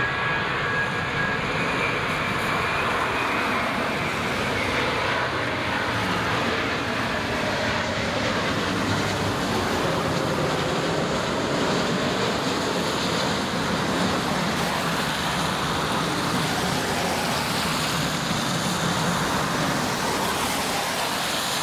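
Steady roar of engines and traffic at a busy airport, with faint high steady tones near the start and near the end.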